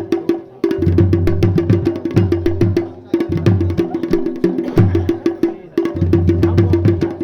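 Fast, loud drumming of the kind that accompanies the Garhwali Pandav Nritya, with rapid sharp strikes over deeper booming drum tones. It goes in repeating phrases of about two and a half seconds, each broken by a brief pause.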